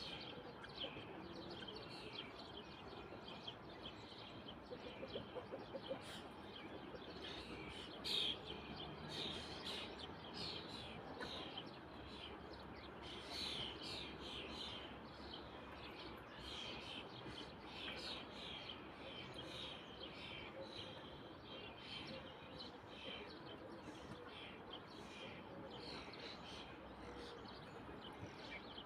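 Small birds chirping over and over, a fairly continuous chatter of short calls over a faint steady background.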